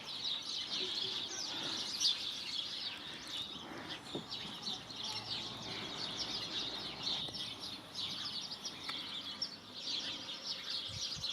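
A flock of small songbirds, mostly sparrows, twittering: a dense, continuous chorus of many overlapping short chirps.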